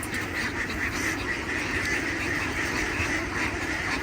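A large flock of farm ducks quacking continuously, many birds calling over one another in a steady din.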